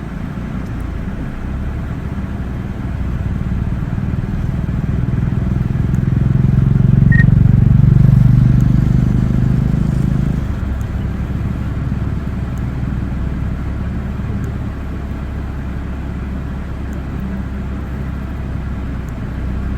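A motor vehicle's engine running steadily with a low rumble, growing louder for a few seconds in the middle and then easing back.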